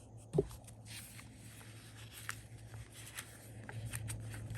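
Sticker book pages being handled and turned: light paper rustling with scattered soft clicks and taps, and a dull bump about half a second in, over a steady low hum.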